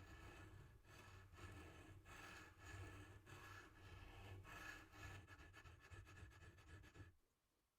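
Faint rubbing and scraping strokes on a watch case, over a steady low hum, stopping abruptly about seven seconds in.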